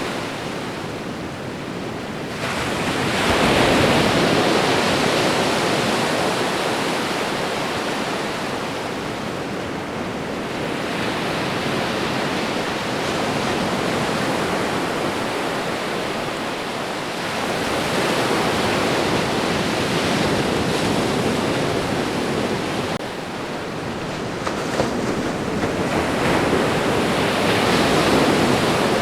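Ocean waves breaking and washing up a shore: a steady rushing surf that swells and ebbs every several seconds, with the biggest surges about three seconds in and near the end.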